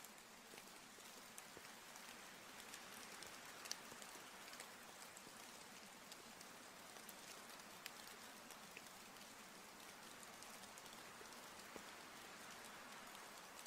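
Faint, steady rain falling, an even hiss dotted with sharp ticks of single drops.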